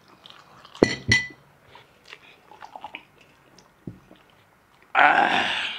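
Fast chewing and eating mouth noises, with a couple of sharp clinks about a second in, one leaving a brief ring. A loud burst of noise follows near the end.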